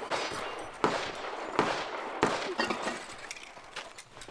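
Several sharp pistol gunshots at irregular intervals, each with a short echoing tail, quieter than the nearby range talk.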